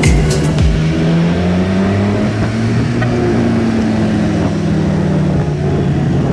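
Benelli TRK 502 motorcycle's parallel-twin engine running at a steady road speed, its note dipping slightly and then rising again, with wind and road noise. Background music beats fade out under a second in.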